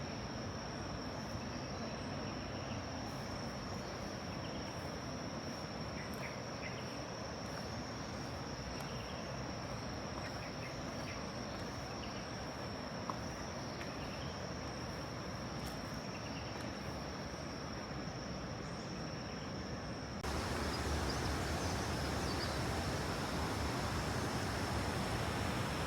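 Insects droning at one steady high pitch over an even rushing background. About twenty seconds in, the rush abruptly becomes much louder, a waterfall-like roar of falling water.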